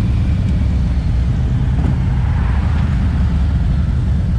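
Motorcycle running on the road, a steady loud low rumble with no break.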